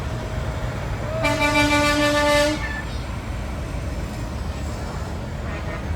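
A truck air horn blown once, a steady blast of about a second and a half, over a steady low rumble.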